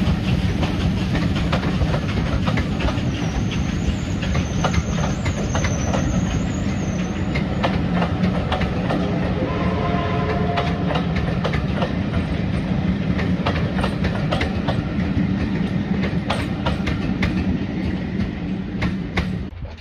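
Steam-hauled heritage train running past, its wheels clicking over the rail joints, with a faint high wheel squeal for a few seconds near the start. The sound cuts off suddenly near the end.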